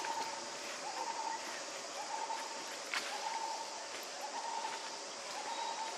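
A bird calling a short, flat note over and over, about once a second, over a steady background hiss. A single sharp click sounds about three seconds in.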